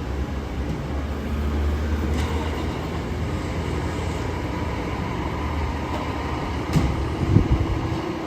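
Fire engine's diesel engine rumbling steadily as the apparatus responds, with a faint steady tone joining in the last second or so.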